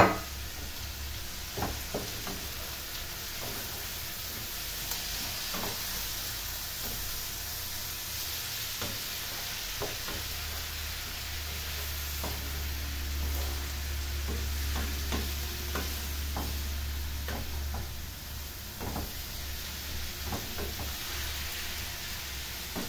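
Chopped pickled salad greens sizzling in oil with fried onions in a stone-coated frying pan, stirred with a wooden spoon that knocks against the pan now and then. A sharp knock right at the start.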